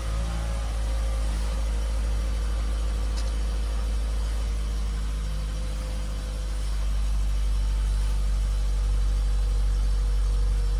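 Toyota Esquire (early 80-series) engine idling steadily just after starting. A faint steady tone sits over the idle and fades out about six seconds in.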